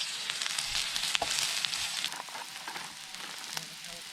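Food sizzling as it fries in a hot pan, a steady hiss with scattered pops and crackles, easing off a little after about two seconds.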